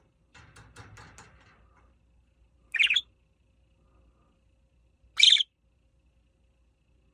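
Budgerigar giving two short, loud chirps about two and a half seconds apart, after a softer run of quick ticks near the start.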